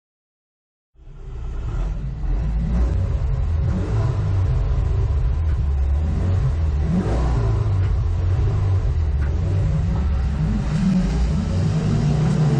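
Hot hatch race car's engine heard loud from inside the cabin, a dense low rumble with shifting pitch, starting abruptly about a second in.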